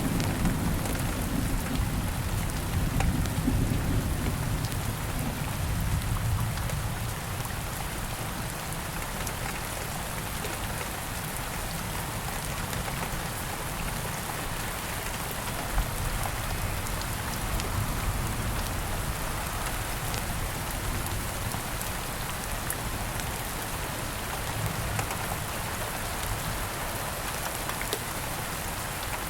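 Steady rain falling, with a low rumble of thunder that dies away over the first several seconds. Scattered small crackles and pops from a campfire, one sharper pop about halfway through.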